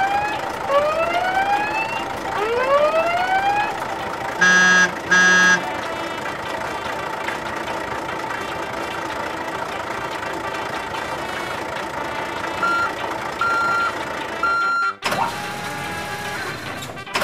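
Truck sound effects: a few siren-like rising whoops, then two short horn honks about five seconds in, and three reversing beeps near the end, over steady background noise.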